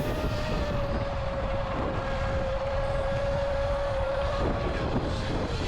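Electric dirt bike's motor whining at a steady high pitch, easing off slightly and fading near the end, over a low rumble.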